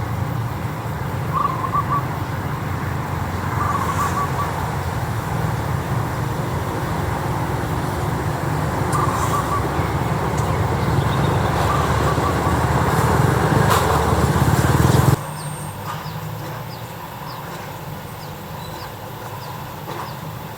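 Birds calling in short repeated phrases over a steady low rumble. The rumble cuts off suddenly about three quarters of the way through, leaving fainter high chirps.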